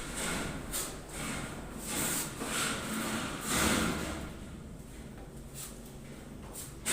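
Steel trowel spreading and scraping wall putty in repeated strokes, several in the first four seconds, then fainter.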